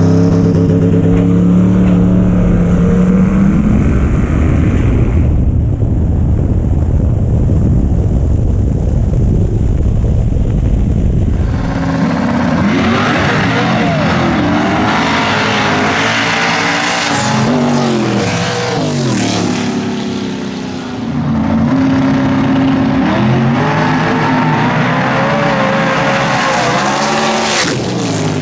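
Drag race car engine running loud, a heavy low rumble at first; about twelve seconds in the sound changes abruptly to engine pitch rising and falling again and again as it revs and accelerates.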